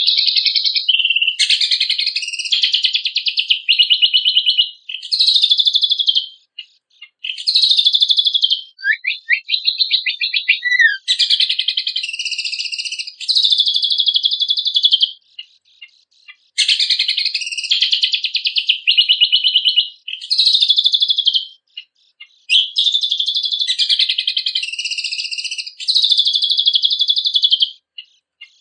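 A cucak kombok (kecial kombok) singing loudly: a high, fast, varied warbling song of rapid trills and chattering notes, in phrases of one to several seconds with short pauses between them.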